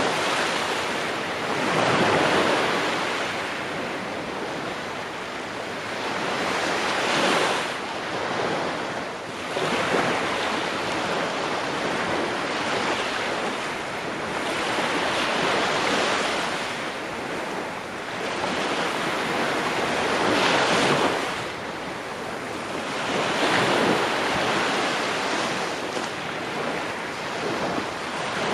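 Ocean waves breaking and washing onto the shore, the surf rising and falling in repeated swells every few seconds, with some wind.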